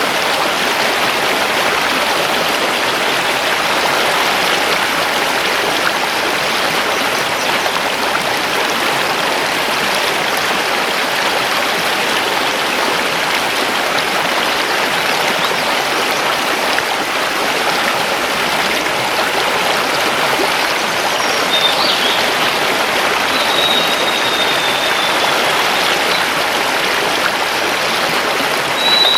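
Mountain river rushing over stones, a steady, even rush of water. In the last third a small bird gives a few thin, high whistles, one of them a long note that falls slightly in pitch.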